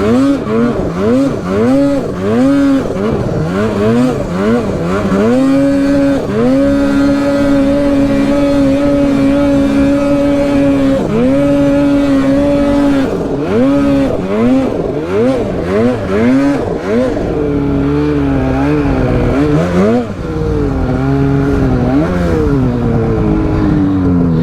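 Polaris mountain snowmobile's two-stroke engine revving in quick bursts of throttle while riding, held at high revs for about five seconds a quarter of the way in and again briefly near the middle, then falling off sharply at the end.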